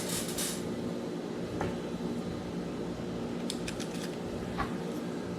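A few light clicks and ticks from small spinning-reel parts being handled, including a quick cluster of ticks about three and a half seconds in, over a steady mechanical hum.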